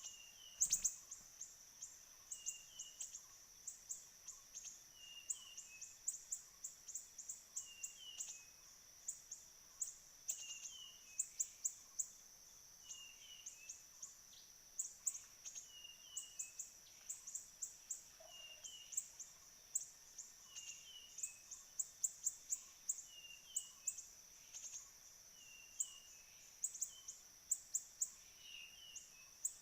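Siri-siri bird call played as a trapping lure from a phone's MP3, a short two-note call repeating at very even spacing about every second and a half, with clusters of quick high chirps over a steady high whine.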